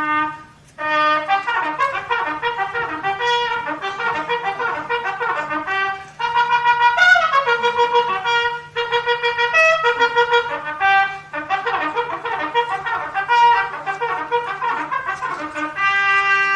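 A lip-buzzed brass mouthpiece on a long length of improvised tubing playing a fast, trumpet-like tune of many short notes, the longer tube giving a whole run of notes from the harmonic series. A steady low hum sits underneath.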